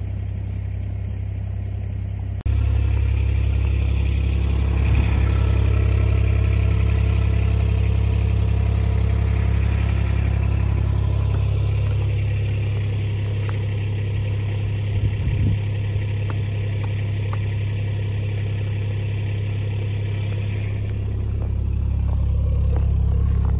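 A vehicle engine running steadily, heard from on board as a low, constant rumble. It gets suddenly louder about two and a half seconds in.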